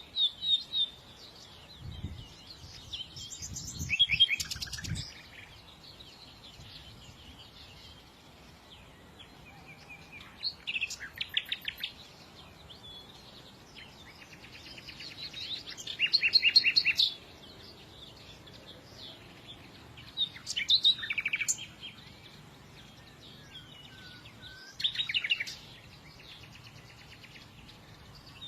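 A small songbird singing short phrases of rapid trilled notes, repeated about every four to five seconds, with a few low thumps a few seconds in.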